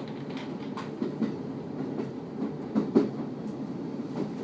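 Cabin noise inside a KiHa 54 diesel railcar on the move: a steady low rumble with scattered clicks and knocks, the loudest two close together about three seconds in.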